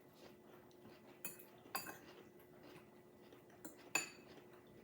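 Cutlery clinking against a bowl while eating, four light clinks, the last one ringing briefly.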